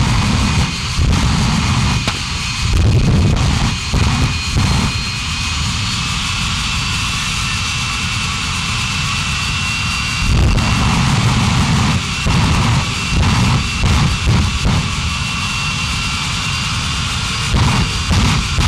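Monster truck engine running loud and revved in repeated surges, with a steady roar of exhaust noise over it.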